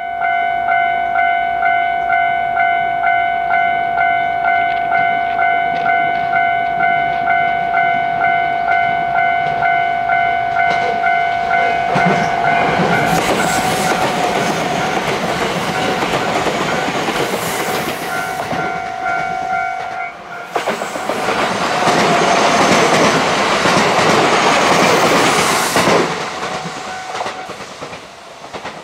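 A Japanese level-crossing alarm rings steadily, about one and a half dings a second, while a JR West 227 series electric train passes close by. The train's rumble and wheel noise rise about twelve seconds in, and the alarm stops at about twenty seconds. A louder stretch of passing-train noise follows, then fades near the end.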